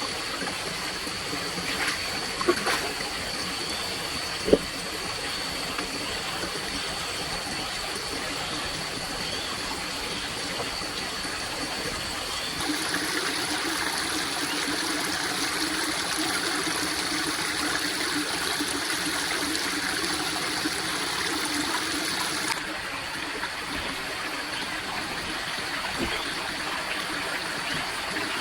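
Water running steadily, like a flowing stream, with a thin steady high whine over it. A few sharp clicks come in the first few seconds, and the sound changes abruptly, brighter and fuller, about 13 seconds in, then changes back about 23 seconds in.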